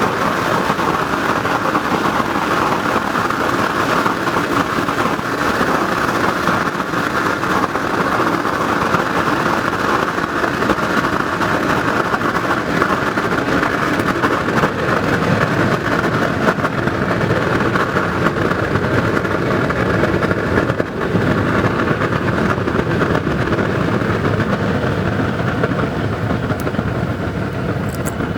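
Blower-fed waste oil burner built from a car muffler, running steadily at full air with a loud, even rushing roar.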